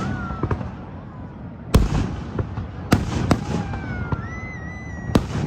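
Fireworks bursting overhead: about five sharp bangs in quick succession, the loudest about two seconds in, with thin whistling tones gliding between them over a steady low rumble.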